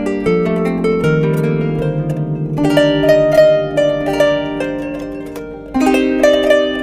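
Kanun, the Turkish plucked zither, playing a melody of plucked notes that ring on and overlap, with a louder phrase starting near the end.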